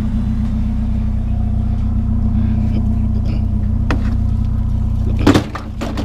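Pickup truck engine running steadily, heard from inside the cab. A light click comes about four seconds in. A sharp clunk follows about five seconds in, then another knock just after.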